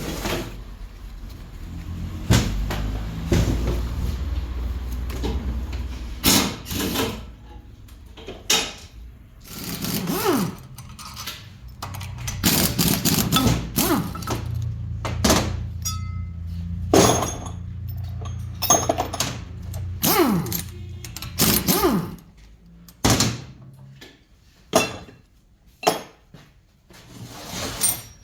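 Repeated knocks and clanks of metal tools and engine parts being handled, over a steady low hum that stops about four seconds before the end, leaving a few separate knocks.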